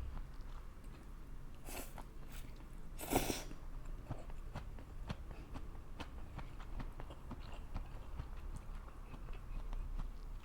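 Close-miked chewing and biting of fried rice noodles and wiener sausages, with many small wet clicks. There are two brief louder bites, about two and three seconds in.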